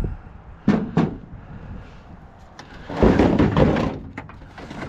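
Two sharp knocks close together, then about a second of loud clattering, like objects being handled or bumped.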